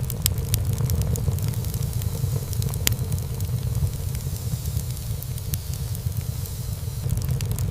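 Wood fire burning in a fireplace: the flames give a steady low rumble, with many small crackles and snaps of burning wood scattered throughout. One sharper pop stands out about three seconds in.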